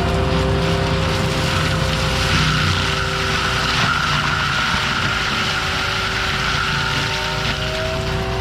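Forestry mulcher on an ASV RT-120F compact track loader running: the machine's engine with a steady whine from the spinning mulcher, its tones drifting slightly up and down.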